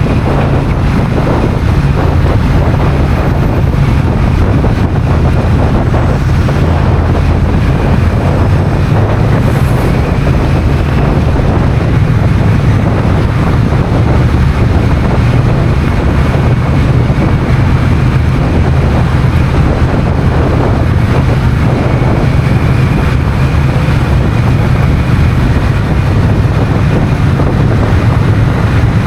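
Heavy wind noise rushing over an action-camera microphone on a moving Honda CMX1100 Rebel, over the steady drone of the bike's parallel-twin engine.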